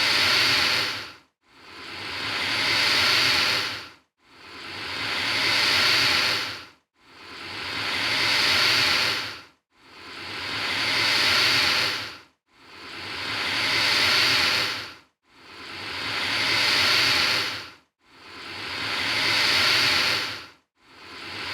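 Alligator hissing, repeated at very even intervals, about one hiss every two and three-quarter seconds. Each hiss swells to full strength and then cuts off suddenly.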